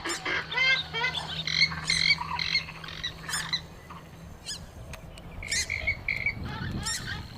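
Purple swamphen (mandar biru) calling: a quick run of short repeated notes, easing off about four seconds in and then picking up again near the end.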